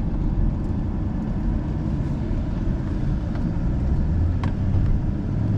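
Engine and road noise inside a moving vehicle's cabin, a steady low rumble, with the engine hum growing stronger about four seconds in.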